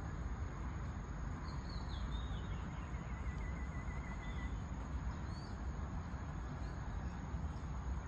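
Outdoor dawn ambience by a pond: a steady low rumble with a few faint bird calls over it, a falling call about a second and a half in, a short trill around three to four seconds, and another brief call a little after five seconds.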